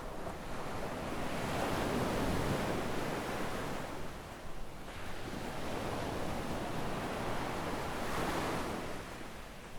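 Waves breaking and washing up a sandy beach: one surge swells and fades over the first half, and another washes in near the end.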